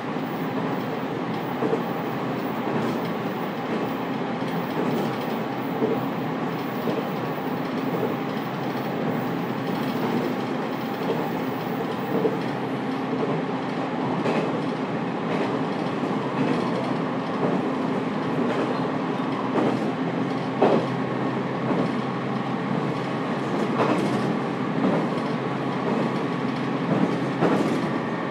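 Running sound inside a JR Kyushu 813 series electric multiple unit, heard in motor car KuMoHa 813-228, which has a Toshiba GTO VVVF drive. The wheels rumble steadily on the rails at speed. In the second half the wheels click sharply and irregularly over rail joints.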